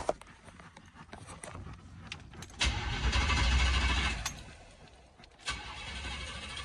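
Pontiac Trans Am engine being cranked over by the starter after a long lay-up, in two tries about a second apart, the first ending with a sharp click. There is no steady idle, so the engine has not caught. Just before, no fuel pump was heard priming.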